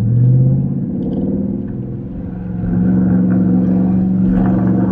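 A car's engine and loud aftermarket exhaust running under way, heard from inside the cabin; the catalytic converters are still fitted. The note eases off a little, then grows louder again about two and a half seconds in and holds steady.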